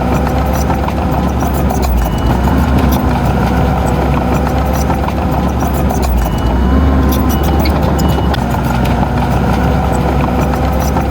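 Diesel engine of heavy earthmoving machinery running steadily under load, with a dense patter of sharp metallic clicks and clanks over it.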